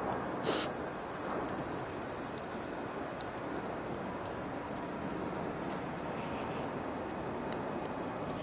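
Insects singing a high, steady buzz that breaks off and resumes, over a steady hiss of rain, with one sharp click about half a second in.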